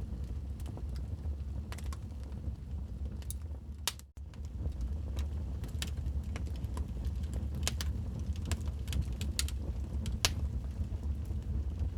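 Wood fire in a fireplace crackling, with irregular sharp pops and snaps over a steady low rumble of the flames. The sound cuts out for an instant about four seconds in.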